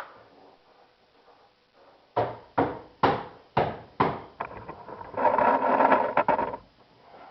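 Five sharp knocks about half a second apart, then a rough crackling noise for about a second and a half, as a resin wing mold is knocked and worked loose from the part.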